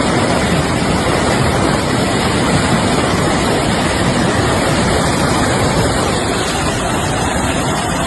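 Fast-flowing floodwater rushing, a loud, steady roar of water.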